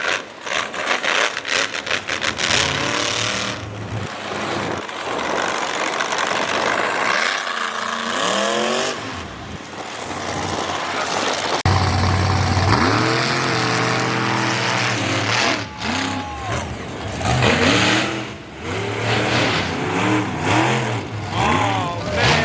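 Monster truck engine revving hard, its pitch climbing and falling again and again. About halfway through, a sudden cut brings in a louder, steadier engine note, followed by more revs.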